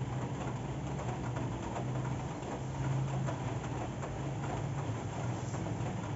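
Steady rain falling, a dense patter of small drop ticks, over a constant low hum.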